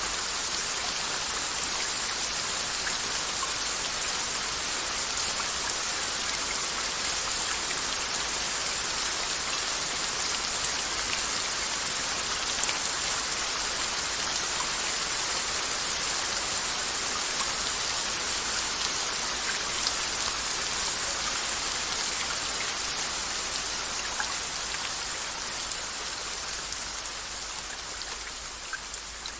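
Steady rain falling, with scattered sharp drop hits standing out, easing down in level over the last few seconds.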